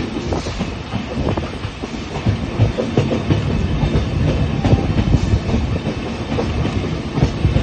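Train heard from on board, running along the track, its wheels clacking over the rails in a dense, irregular run of knocks over a steady low rumble.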